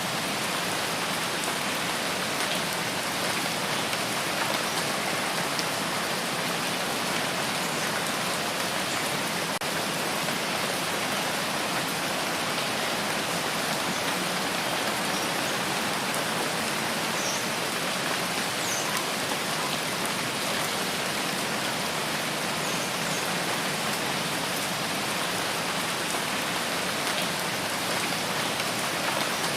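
Steady rain falling in a rainforest: an even, unbroken hiss of rain.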